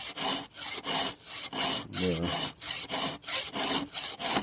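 Round file being stroked across the cutters of a chainsaw chain, steel rasping on steel at about three strokes a second, the file held straight rather than twisted.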